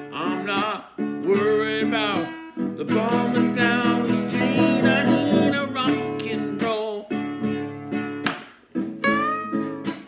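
Acoustic guitar strummed with a voice singing over it.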